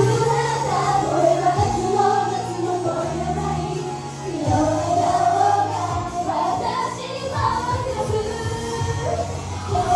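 Japanese idol pop song performed live: female voices singing the melody together over a loud pop backing track with a steady bass line.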